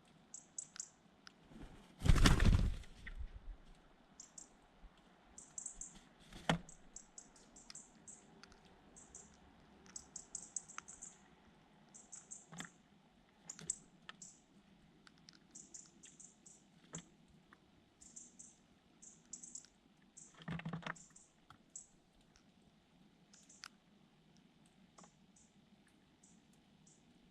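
Small birds giving quick, very high-pitched chirps over and over, with scattered sharp clicks and taps. There is a loud brief rush of noise about two seconds in and a shorter one about twenty-one seconds in.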